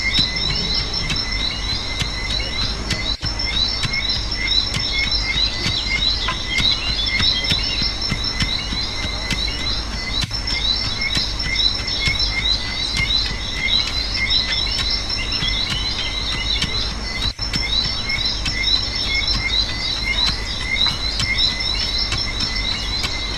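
Dense insect chorus, cricket-like trilling and fast chirping, over a steady low rumble, with brief cut-outs about every seven seconds as though the ambience track loops.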